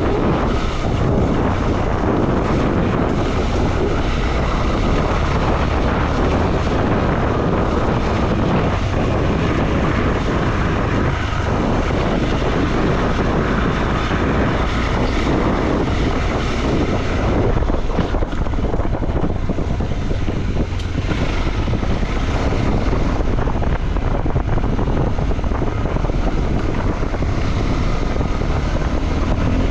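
A motorcycle, a KTM 390 Adventure, running while ridden off-road, its engine heard under heavy wind buffeting on the microphone.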